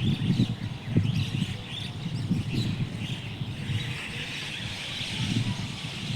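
Many small birds chirping at once in a busy, overlapping chorus, over an uneven low rumble.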